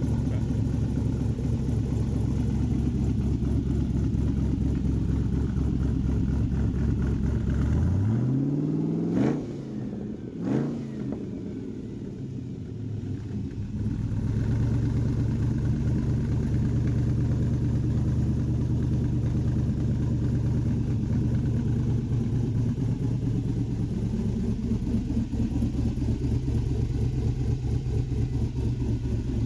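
2008 5.3L LC9 aluminium-block LS V8 with a Stage 2 camshaft, running on an engine stand. It idles steadily, is revved twice in quick succession about eight to ten seconds in, drops back and then settles into its idle again.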